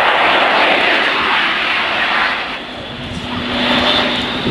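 Airbus A400M's four turboprop engines droning loudly as the aircraft flies its display. The noise eases slightly about three seconds in, then swells again, with a steady low hum joining it.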